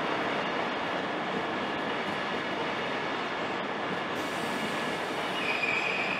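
Caledonian Sleeper Mark 5 coaches rolling along the platform with a steady rush of wheels on rail. A high wheel squeal starts near the end.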